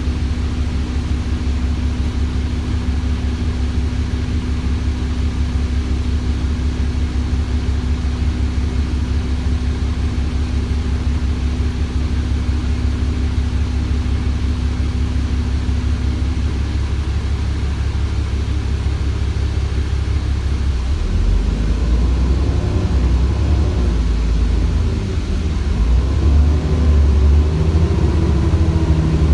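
Cummins ISBe 6.7-litre diesel of an ADL Enviro400 double-decker bus running with a steady low drone. About two-thirds of the way through, the engine picks up and rises in pitch. The pitch rises and falls twice as the Voith automatic gearbox shifts.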